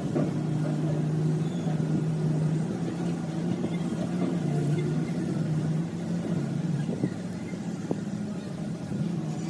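An engine running steadily at a constant speed, holding one low pitch, with a couple of faint knocks near the end.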